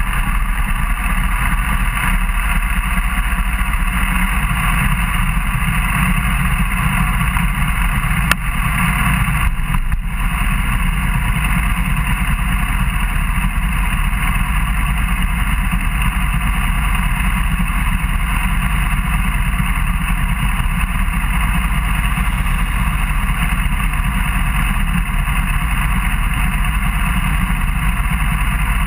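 Suzuki GSR600 motorcycle's inline-four engine running steadily, heard close to the bike under a heavy noise haze, with a single sharp click about eight seconds in.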